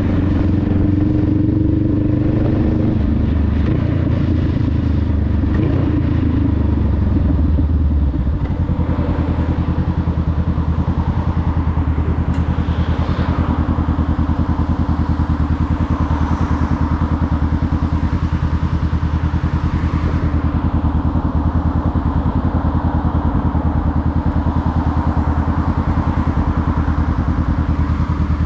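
Honda Rebel 500's parallel-twin engine running as the motorcycle rolls along and slows, then settling into a steady idle about eight seconds in.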